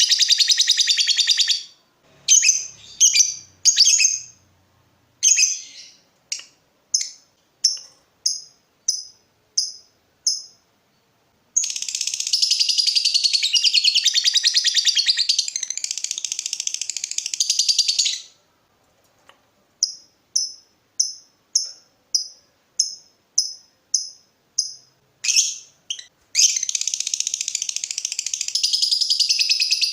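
Lovebird singing in the "ngekek" style: long, continuous, high-pitched chattering trills, one lasting six or seven seconds in the middle and another starting near the end. Between the trills come runs of short, evenly spaced ticking chirps ("ngetik"), about two a second.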